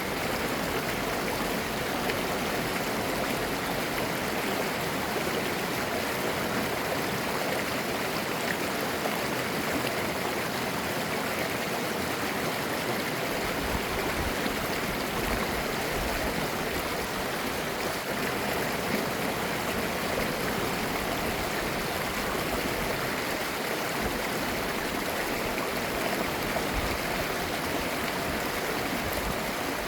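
Clear mountain stream flowing over rocks, a steady babbling and gurgling rush of water.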